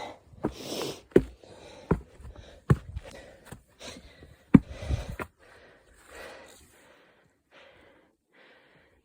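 Footsteps on a hiking trail, a sharp step roughly every three-quarters of a second, mixed with heavy breathing. The steps stop after about five seconds, and only softer breathing is left.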